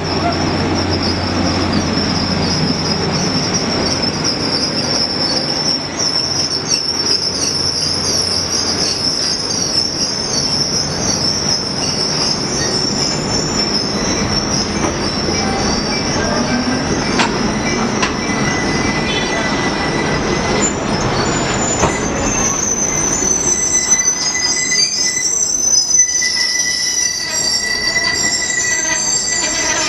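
Passenger train moving through the station with its steel wheels squealing on the rail, under a continuous rumble. High-pitched squeal tones shift and come and go, growing more varied in the second half.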